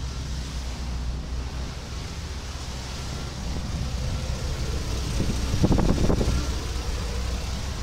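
A vehicle engine idling, heard as a steady low hum, with rustling handling noise. A louder burst of rustle and rumble comes about five and a half to six seconds in.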